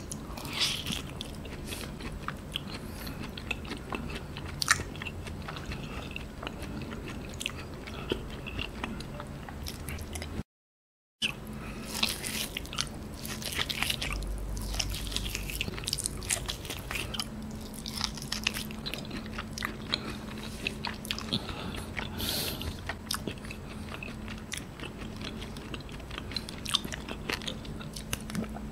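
A person biting and chewing A5 wagyu beef close to the microphone, with many small mouth clicks and smacks.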